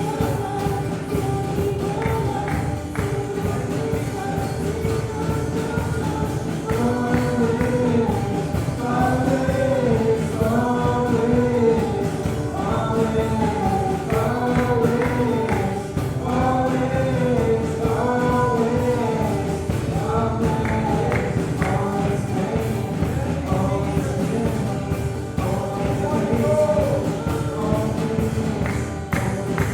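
Gospel worship music: a band with a steadily shaken tambourine, and singers joining in with long, rising and falling phrases from about seven seconds in.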